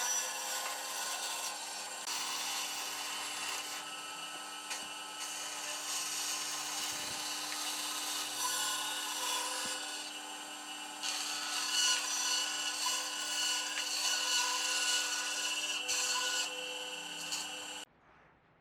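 A tool working wood, making a steady rubbing, sanding-like noise over a constant hum. It stops abruptly near the end.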